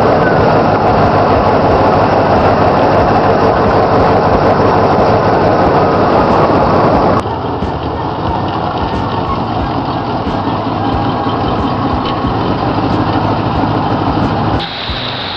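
Checker Marathon taxi's engine running steadily, stepping down abruptly to a quieter level about seven seconds in. Music comes in near the end.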